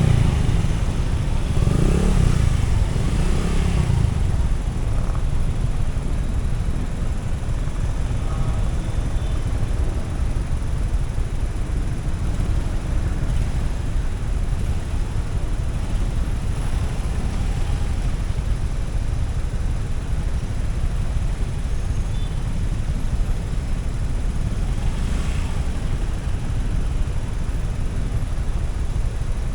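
Motorcycle ride: a steady low rumble of wind and road noise, with the motorbike's engine. The engine note rises and falls in the first few seconds, then settles into a steady run.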